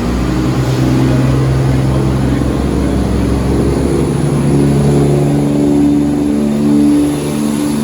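A Transport for Wales Class 150 diesel multiple unit's engines revving as it pulls away from the platform. The engine note steps up in pitch about four seconds in and keeps climbing.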